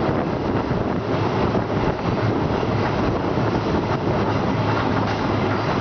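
Passenger train running along the platform as it pulls into a station: a steady rumble of wheels on rail, heard from beside the coach.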